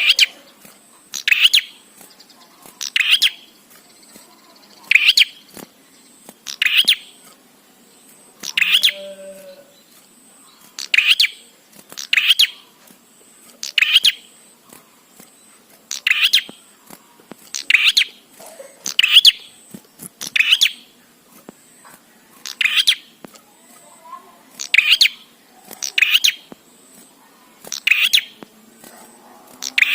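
Prinia (prenjak) calling: a short, loud, sharp call repeated at an even pace, about one every second and a half to two seconds.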